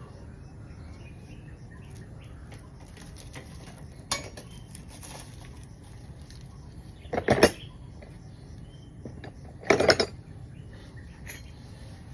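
Metal tools and parts clinking, with scattered light clicks and two louder clattering bursts about seven and ten seconds in.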